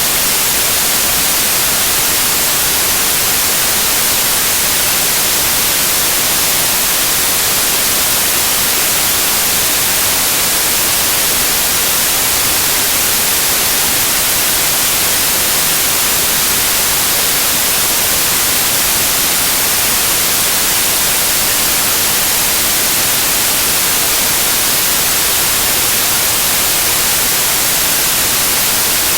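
Loud, steady white noise: an even hiss with no changes, brightest in the treble.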